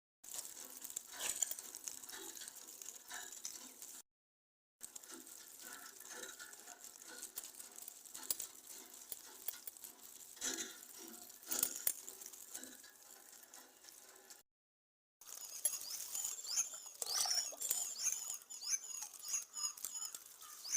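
Outdoor ambience of scattered rustles and clicks, with a run of short, high chirps in the last few seconds. The sound cuts out to dead silence three times, near the start, at about four seconds and at about fourteen seconds.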